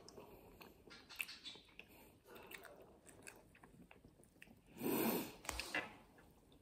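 Close-up chewing and biting of a flaky pastry, with small wet mouth clicks throughout and one louder burst about five seconds in.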